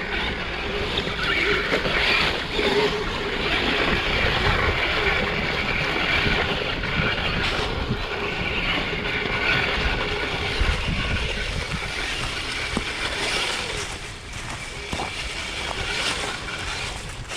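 A small electric RC tracked vehicle running, a steady rushing noise with a faint motor whine, with wind on the microphone.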